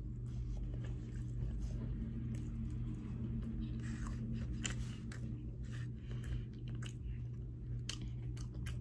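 A person chewing and smacking on mouthfuls of bread dipped in curry sauce, with short wet mouth clicks scattered irregularly, over a steady low hum.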